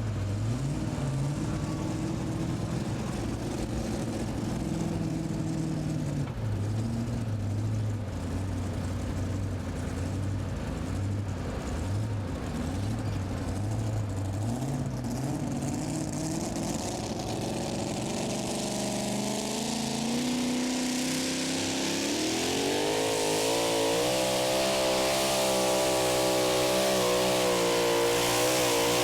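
Engine of a super modified two-wheel-drive pulling truck. For about 20 s the revs step up and down in short blips, then from about 20 s in it climbs to high revs and holds there, loud and steady, as the truck makes its pull.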